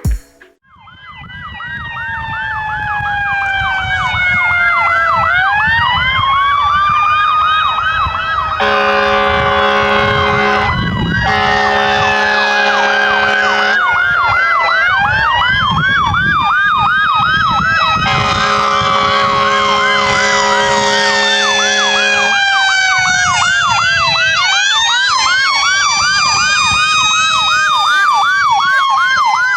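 Fire engines' sirens sounding together: Whelen electronic sirens in a fast yelp alongside a Federal Q2B mechanical siren slowly falling and winding back up, building up over the first few seconds. A steady Grover air horn blasts over them twice, for about five seconds from nine seconds in and for about four seconds from eighteen seconds in.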